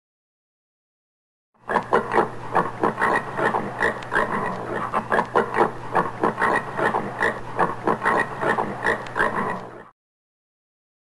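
Common warthog grunting in a rapid, continuous series of short grunts, several a second. It starts about two seconds in and cuts off a second before the end.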